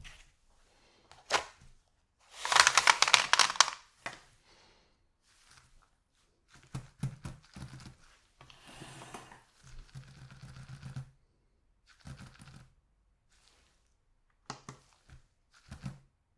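Chocolate packaging being handled by hand: a loud crinkling, crackling rustle of wrapper film from about two to four seconds in, followed by softer rustles and small sharp knocks and clicks.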